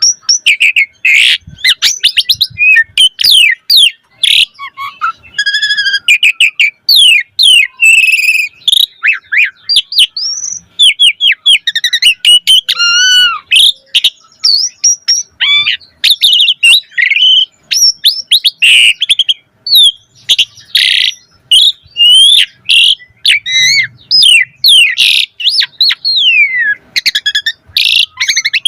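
Asian pied starling (jalak suren) singing continuously: a rapid, varied string of loud whistles, rising and falling glides, chattering notes and warbled trills, with brief breaks between phrases. The song is packed with mimicked fill-in phrases.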